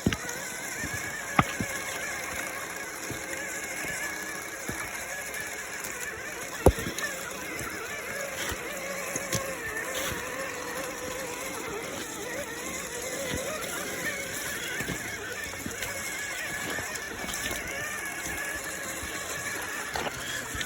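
Electric motors of RC crawler trucks whining, the pitch wavering up and down with the throttle. A few sharp clicks or knocks come through, the loudest about a third of the way in.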